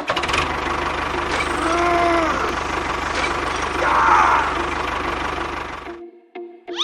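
A small engine running steadily with an even pulsing beat, cutting off abruptly about six seconds in.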